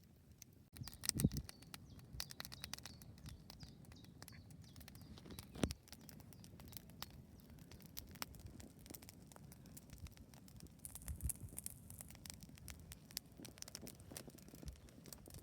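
Wood campfire crackling, with irregular small snaps and pops throughout and two louder knocks, about a second in and about five and a half seconds in.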